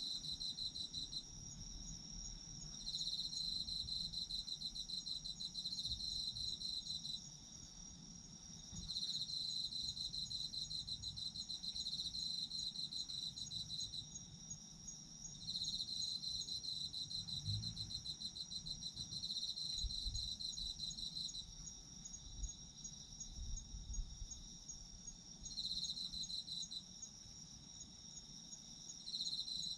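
Autumn insects singing, crickets among them: one high, steady pulsing trill throughout, and a second, slightly lower trill that starts and stops in bursts of one to six seconds with short pauses between.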